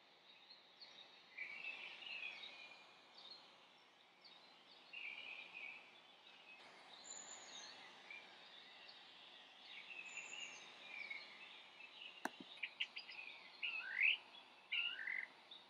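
Several birds chirping and calling in short phrases over a faint, steady outdoor hiss. There is a single sharp click about twelve seconds in, and a quick rising call near the end is the loudest sound.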